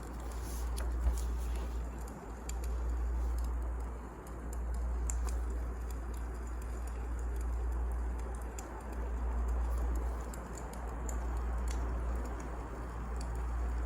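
Firewood burning in a fireplace: irregular crackles and small pops over a steady low rumble from the fire that slowly swells and fades every few seconds.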